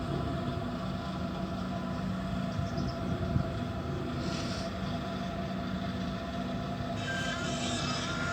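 Compaction machine's engine running steadily with an even, low drone while it compacts sand-and-gravel railway fill; a higher hiss joins near the end.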